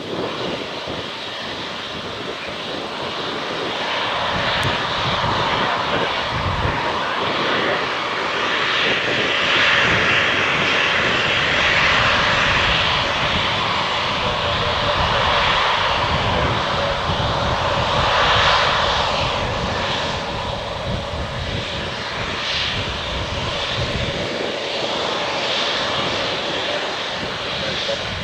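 Fixed-wing airplane engine running: a steady rushing sound with a faint held tone, growing louder through the middle and easing off toward the end.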